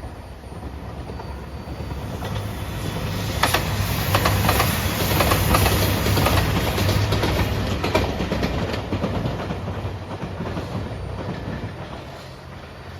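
A train passing close by at a level crossing: its rumble swells to a peak in the middle and then fades away. As it goes by, the wheels clack rhythmically over the rail joints.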